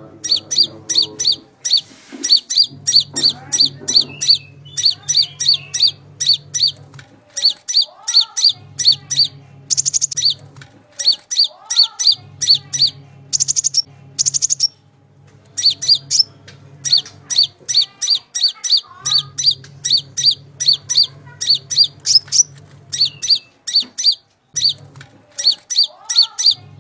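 Konin (kolibri ninja) sunbird song: rapid strings of short, sharp, high chirps repeating almost without a break, with a couple of short pauses. A low hum comes and goes underneath.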